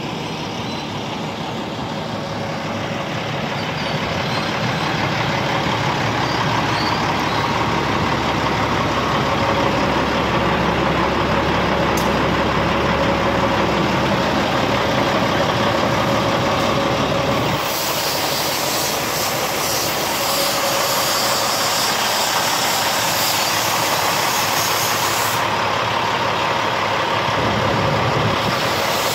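Kenworth W900 truck's diesel engine running steadily. A little over halfway through, the low rumble eases and a steady hiss takes over for several seconds.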